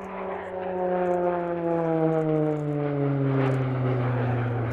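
Short Tucano T1 turboprop flying past, its propeller and engine note falling steadily in pitch as it goes by and growing louder about a second in.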